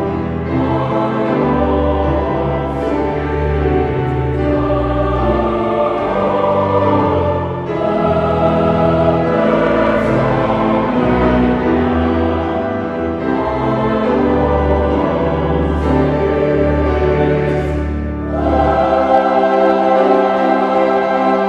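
A choir singing a Christian worship song over instrumental accompaniment in held, sustained chords; the low bass drops out near the end.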